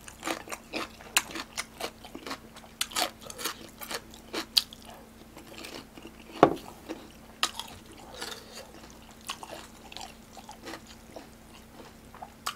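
Close-miked chewing of a mouthful of fried, sauced sweet-and-sour pork: irregular wet mouth clicks and light crunches, with one sharper click about six and a half seconds in.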